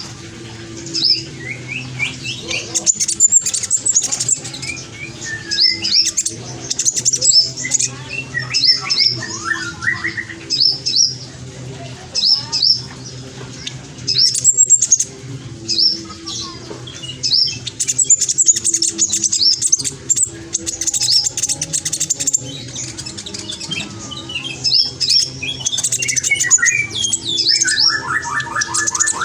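Black sunbird singing at full vigour, a rapid run of short high chirps and quick sweeping notes, with other birds calling back; a fast trill of repeated notes comes in near the end. A faint low steady hum runs underneath.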